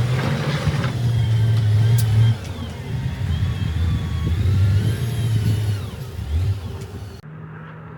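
Heavy earthmoving machine's diesel engine running and revving under load, its pitch rising sharply at the start and again about six seconds in. Near the end the sound changes abruptly to a quieter, steadier engine hum.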